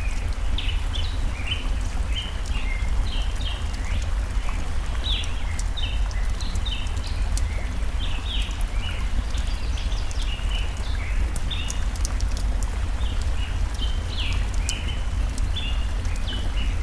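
Birds chirping in a steady run of short, high notes over the constant sound of a flowing stream, with sharp crackles and pops from a wood campfire scattered throughout.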